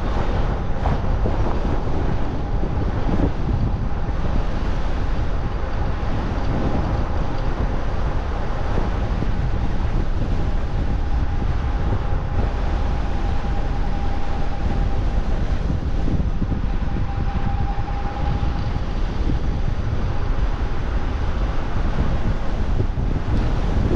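Wind buffeting the microphone on a moving e-bike, a steady low rushing noise. A faint steady whine comes in about ten seconds in and holds for several seconds.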